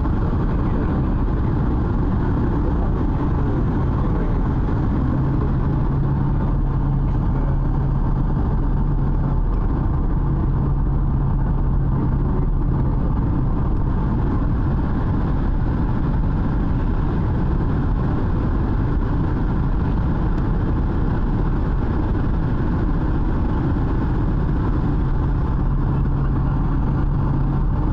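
Steady cabin noise of a passenger aircraft in flight on its approach to land: engine and airflow noise with a low hum that comes in a few seconds in, fades, and returns near the end.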